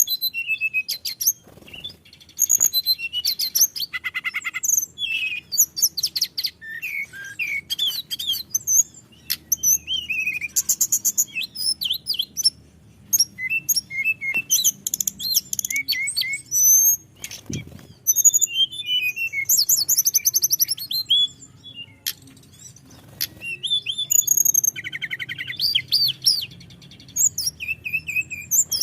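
Hill blue flycatcher (tledekan gunung) singing a long, rolling song: fast, varied high whistled phrases and trills that run on almost without a break.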